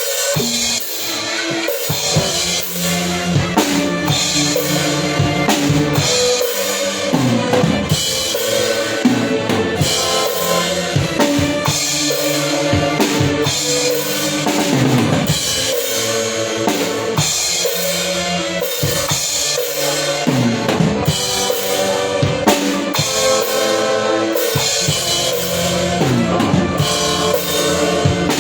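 A live band playing an instrumental piece, led by a drum kit with bass drum and snare keeping a steady beat under pitched instruments.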